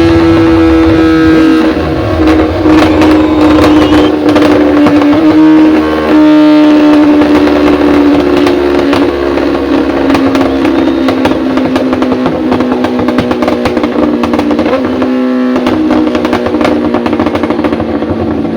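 A BMW S1000-series inline-four motorcycle engine running at high revs on a dynamometer, held loud and steady while its pitch slowly sinks. Sharp crackles sound throughout.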